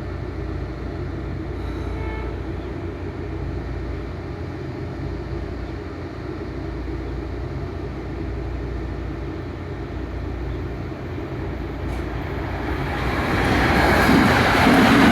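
NJ Transit Arrow III electric multiple-unit train: a steady low rumble that swells much louder near the end as the train draws close and runs past.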